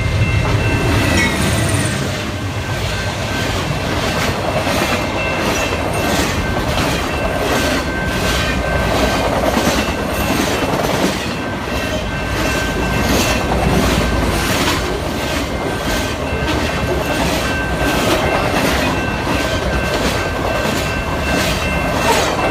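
CN freight train carrying truck trailers rolling past, its wheels clicking over the rail joints in a steady repeating rhythm. There is a heavy low rumble in the first couple of seconds, and a faint, steady high-pitched whine comes and goes.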